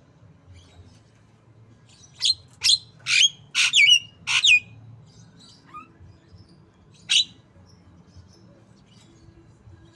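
Javan myna calling in a mimicked white-rumped shama style: a quick run of about six loud, harsh, sweeping notes starting about two seconds in, then a single note a couple of seconds later.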